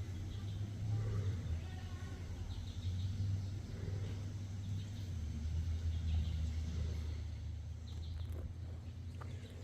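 Outdoor ambience: a low, uneven rumble, with faint high chirps now and then.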